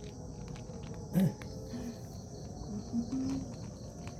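Crickets chirping steadily in the background, with one short, louder sound about a second in.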